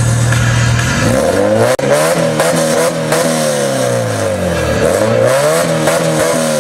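Car engine being revved repeatedly at a standstill, its pitch climbing and falling several times.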